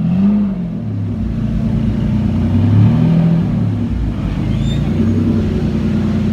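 A sports car's engine running with short rev blips, its pitch rising and falling at the start, about three seconds in, and again more lightly around five seconds.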